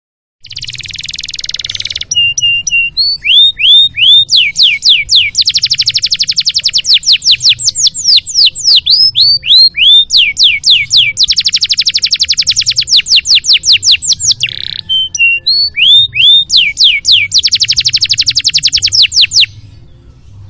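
Domestic canary singing a long song: a buzzy opening note, repeated down-sweeping whistled notes and three long, very fast rolling trills, stopping near the end.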